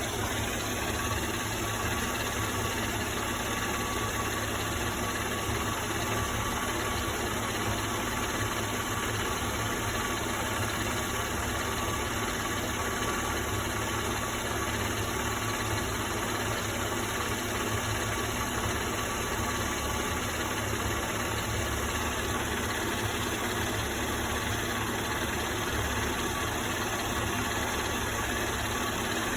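Mercedes-Benz M112 V6 petrol engine idling steadily, with no revving.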